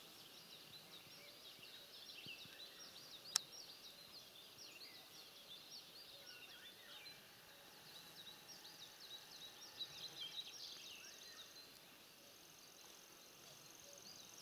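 Faint chorus of small songbirds chirping and trilling, many short calls overlapping, with a single sharp click about three seconds in.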